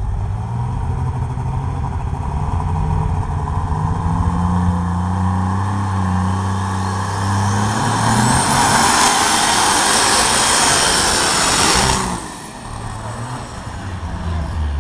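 Light super stock pulling tractor (Case IH Magnum MX210) engine running hard through a pass, climbing in pitch and getting steadily louder. It cuts off suddenly about twelve seconds in, stopping mid-pass.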